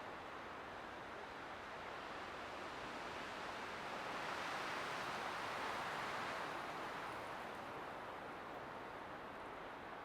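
Light wind blowing steadily, swelling into a soft gust about four seconds in and easing off again a few seconds later.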